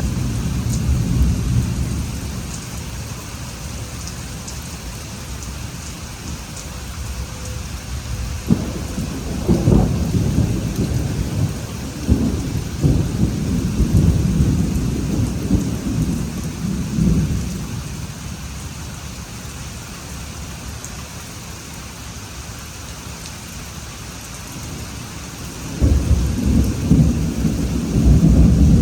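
Thunderstorm: steady rain with thunder rumbling in long rolls. One roll fades in the first couple of seconds, another breaks in suddenly about a third of the way through and rolls on for several seconds, and a third cracks in sharply near the end.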